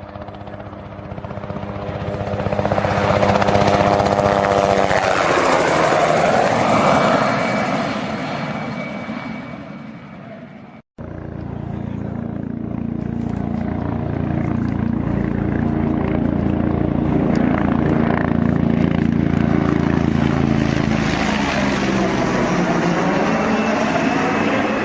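Aircraft fly-by sound effects, two in a row. Each engine drone builds, passes with a bend and drop in pitch, and fades. The first pass cuts off suddenly about eleven seconds in, and the second swells straight after.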